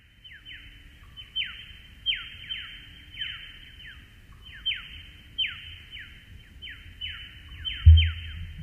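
A bird calling: a quick, even run of short high chirps, each sliding downward, about three a second. A dull thump near the end is the loudest sound.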